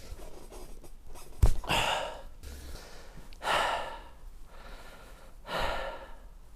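A man breathing out hard three times, out of breath from the effort of forcing a plug into a tyre, with a sharp knock about a second and a half in.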